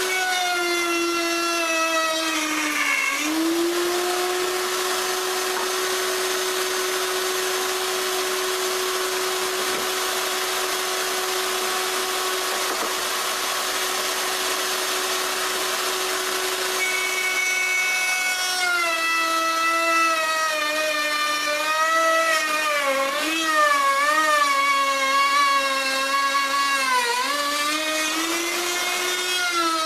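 Electric router running with a steady high whine. Its pitch sags briefly about three seconds in, and through the second half it dips and wavers again and again as the bit takes load cutting wood, climbing back up near the end.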